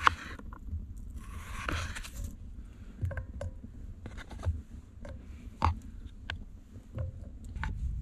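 Knife cutting through raw potatoes: two crunchy slicing strokes in the first two seconds, then scattered light clicks and taps.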